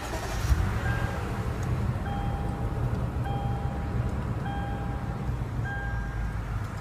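Lexus GX 460's 4.6-litre V8 engine just started and idling with a steady low rumble, while a dashboard warning chime beeps about once a second, five times.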